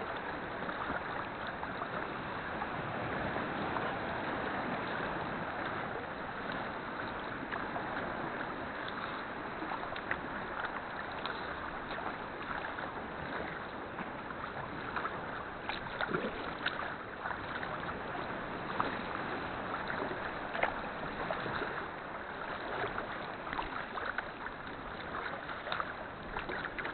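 Water splashing and lapping around a paddled sea kayak: a steady wash with scattered small splashes and drips.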